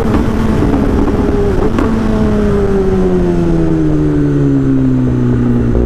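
Motorcycle engine revved near the red line, then the revs falling smoothly over a few seconds as the throttle eases off. Low wind rumble on the microphone underneath.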